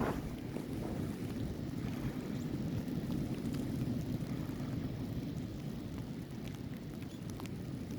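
Wind in a snowstorm buffeting the microphone, a steady low rumble.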